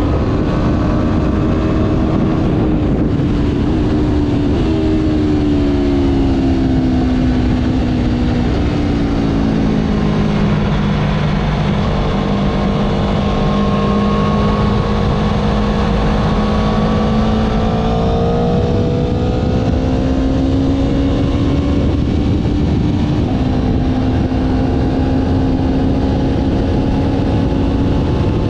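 Motorcycle engine running under way with wind rush. Its pitch falls about a third of the way in, holds and climbs slowly, then steps up near the end.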